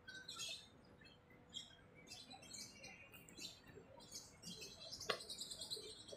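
Small birds chirping faintly: scattered short, high chirps, with a quick falling run of chirps about five seconds in.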